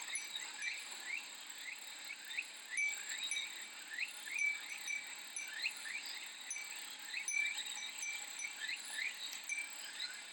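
Summer insect chorus: cicadas keep up a steady high buzz while many short rising chirps repeat and overlap, several a second.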